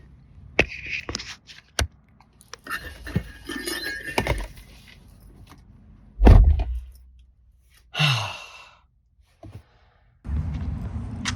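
A series of scattered clicks and knocks, with one heavy thump about six seconds in that is the loudest sound, followed by a short rustling burst; steady background noise with a low hum starts near the end.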